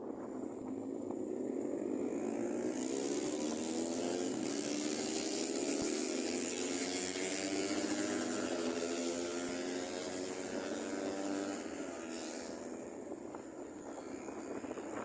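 A motor engine passing close by: it grows louder over the first few seconds, holds with a slowly shifting pitch, then fades away near the end.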